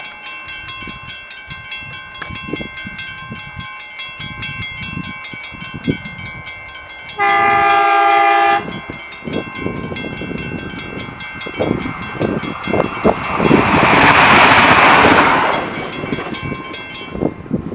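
Level crossing warning bells ringing fast and steadily as a train approaches. About seven seconds in the train's horn sounds a chord for about a second and a half, then the train runs over the crossing with a rumble and clacking wheels, loudest about two-thirds of the way through, and the bells stop just before the end.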